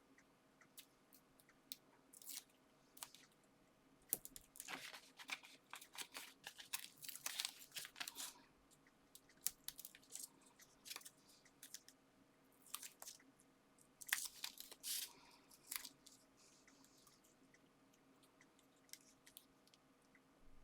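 Paper and card being handled: scattered soft crinkles, taps and small peeling sounds, coming in two busier spells.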